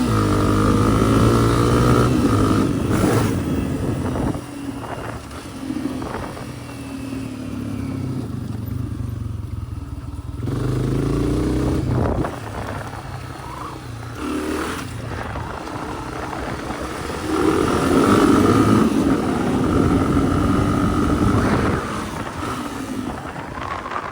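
Honda CRF250F dirt bike's single-cylinder four-stroke engine under way on a trail, the throttle opened and rolled off again and again. It is loudest at the start and again about three quarters of the way through, dropping back in between.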